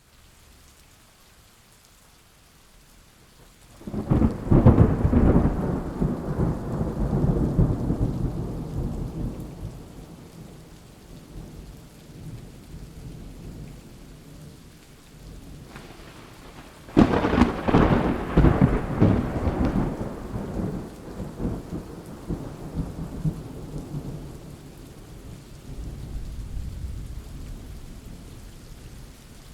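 Thunderstorm: steady rain hiss with two loud thunderclaps, one about four seconds in and one about seventeen seconds in, each breaking sharply and rolling off into a long fading rumble, with a quieter roll of thunder near the end.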